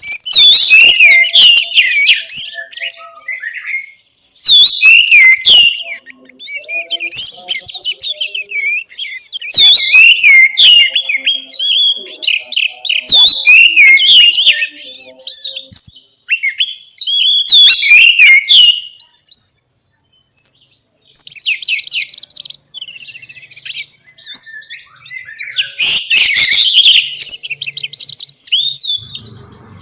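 Orange-headed thrush singing loudly in varied phrases of whistles and quick chirps with falling slurred notes. The phrases come in bursts of two to three seconds with short pauses between.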